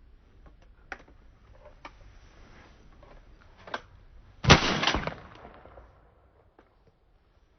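Two shotgun shots about half a second apart, a little past halfway, loud and sudden with a short fading tail. A few faint clicks come before them.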